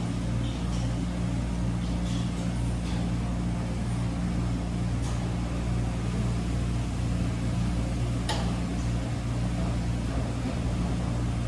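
Wascomat Senior W125 commercial washing machine running with a steady low hum, with a single sharp click about eight seconds in.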